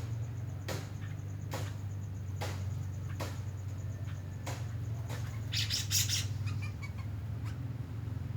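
Birds chirping, with short sharp calls about once a second and a brief busy flurry of high chirps a little past the middle, over a steady low hum.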